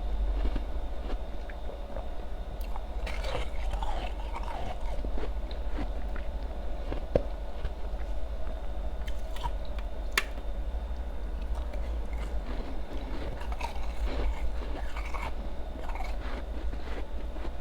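A person biting and chewing ice, irregular crunches and crackles with one sharp crack about ten seconds in.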